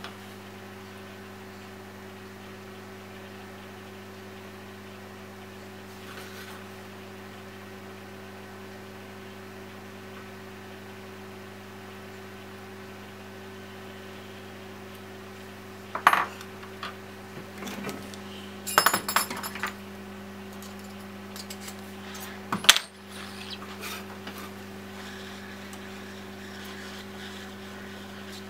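Small metal objects clinking and tapping on a hard surface, in a few short clusters past the middle, over a steady low electrical hum.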